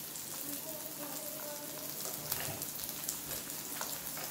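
Onions, carrots and okra sizzling in a wok: a steady hiss with many small crackles.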